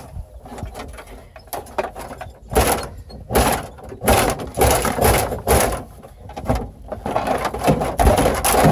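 GMC truck dashboard being wrenched and pried loose by hand: a run of irregular noisy bursts and knocks that grows busier and louder in the second half, as the part gives way.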